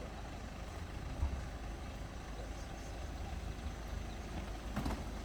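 Steady low rumble of outdoor street background noise, with a soft thump about a second in.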